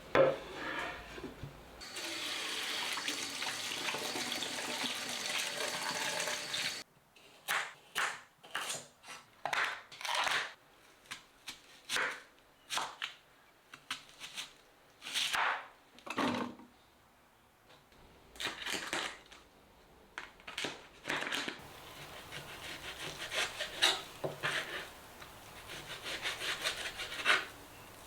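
Water running steadily from a tap for about five seconds, cutting off suddenly, followed by a long series of short separate household handling noises.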